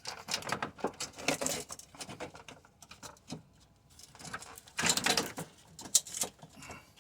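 Clicks, scrapes and squeaky rubbing of car parts being handled and fitted as a radiator bracket is worked into place, in two bouts: one at the start and another about five seconds in.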